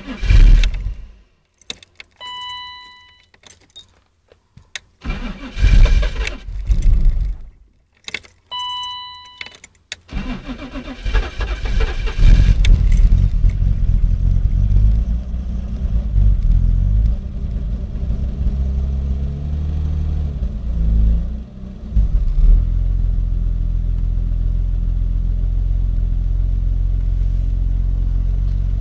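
BMW E34 525i's M50 straight-six being cold-started at −19 °C: two short bursts of cranking, each followed by a one-second electronic beep, then the engine catches about ten seconds in. It runs unevenly for a while, then settles into a steady cold idle.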